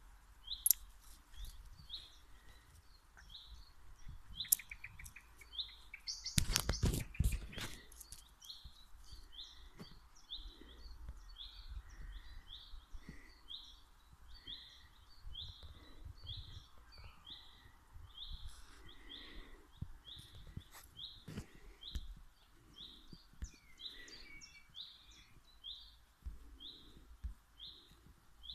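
A songbird calling over and over with short, high, down-slurred chirps, two or three a second. Low rumbling wind noise runs on the microphone, and a brief loud rush of noise comes about six seconds in.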